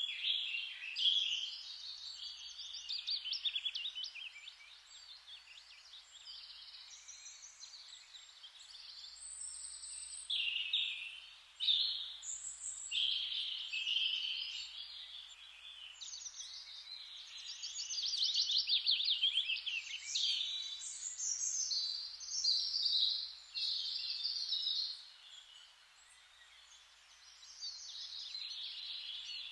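Several songbirds singing over one another in near-continuous trills and chirps, easing briefly near the end.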